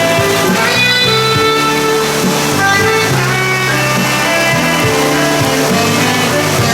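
Live band music in an instrumental passage led by guitar, with the steady hiss of heavy rain underneath.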